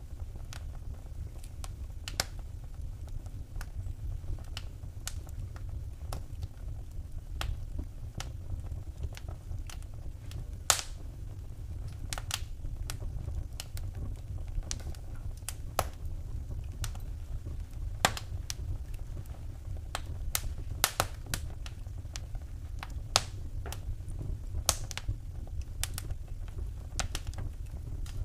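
Wood fire crackling in a fireplace: irregular sharp pops and snaps, a few much louder than the rest, over a steady low rumble of the burning fire.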